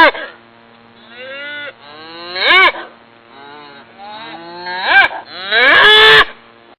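Cow mooing repeatedly: several calls that rise and fall in pitch, loud moos about two and a half seconds apart with softer ones between them, and a long, drawn-out moo near the end.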